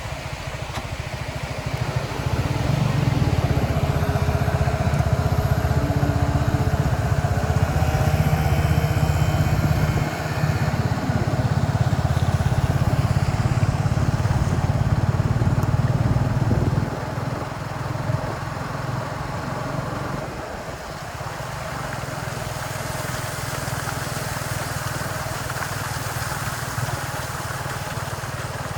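A motor vehicle's engine running steadily, louder for about fifteen seconds and then easing off about seventeen seconds in.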